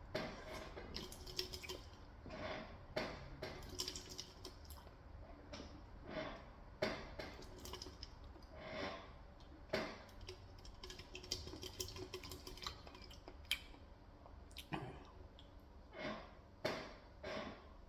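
Close-miked eating sounds: chewing with many short, irregular clicks and taps of chopsticks against dishes.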